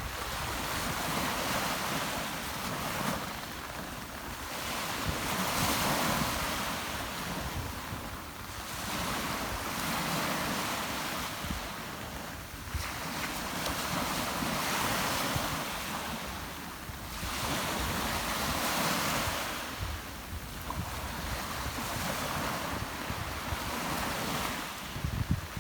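Rough Mediterranean surf breaking on the shore, surging louder and dropping back about every four to five seconds, with wind buffeting the microphone.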